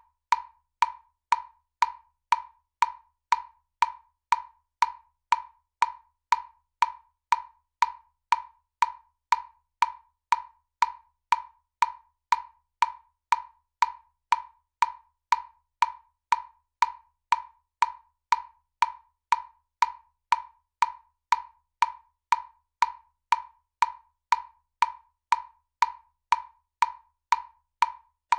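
Metronome ticking at a steady tempo of about two clicks a second, each a sharp wood-block-like click.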